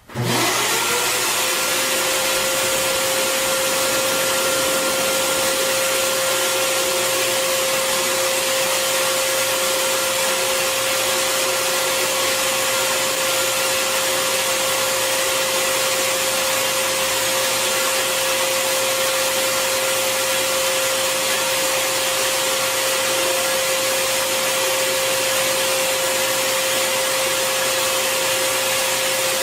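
Bissell Garage Pro 18P03 wall-mounted wet/dry vacuum's 12-amp motor switched on in blower mode. It spins up within about half a second, then runs steadily: a rush of air with a constant tone on top.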